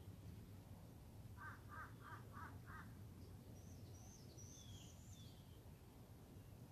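A crow cawing five times in a quick, even series, faintly. A few high, quick chirps from a smaller bird follow.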